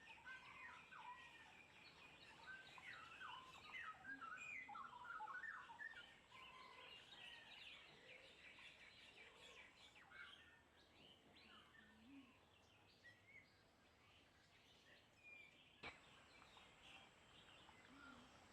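Faint chorus of several tropical forest birds chirping and warbling, busiest in the first third and thinning out after. One sharp click comes about three-quarters of the way through.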